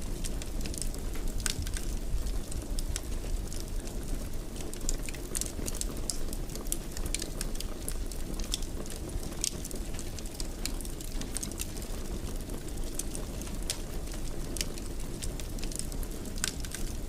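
Fire crackling in a fireplace: a steady low rumble of flames with scattered sharp pops and snaps.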